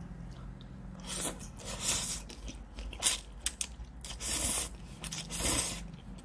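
A person eating close to the microphone: chewing, with about five loud crunchy bites spaced roughly a second apart and small wet clicks between them.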